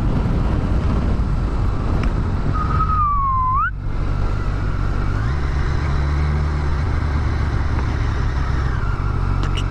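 Yamaha FZ1's inline-four engine running under way, with rushing wind noise. A whine dips and then climbs sharply about three seconds in, the sound drops briefly just before four seconds, and the engine note rises about five seconds in.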